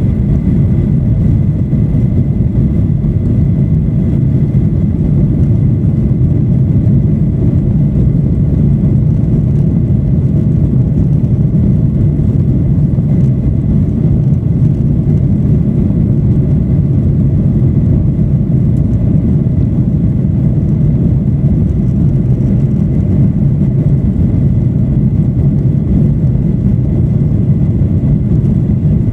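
Steady jet cabin noise inside a Boeing 737-800: an even, unbroken low rumble of engine and airflow noise, with a faint steady whine above it.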